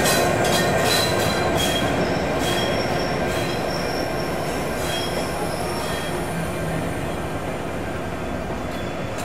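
Diesel-hauled train rolling along jointed track: a few sharp clanks in the first couple of seconds and short high wheel squeals, with the steady rolling sound slowly fading away.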